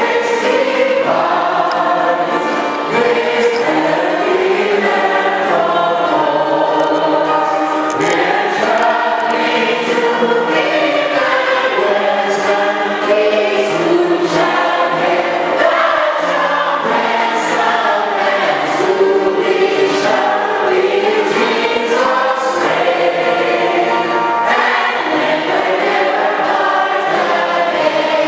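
A choir singing without a break, at a steady level throughout.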